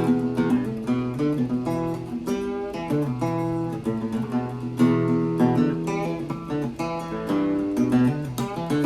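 Acoustic guitar music: plucked notes mixed with strummed chords, with a new note or chord sounding every fraction of a second.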